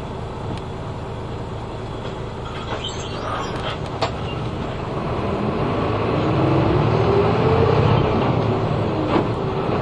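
A route bus's diesel engine heard from inside the cabin, running low at a stop and then picking up as the bus pulls away about five seconds in, its pitch climbing steadily. Near the end the pitch drops briefly and climbs again, as at a gear change.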